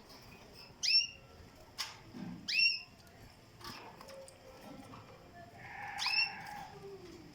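A bird calling: three short, sharp, high call notes, each sweeping quickly down in pitch, with a few faint clicks between them.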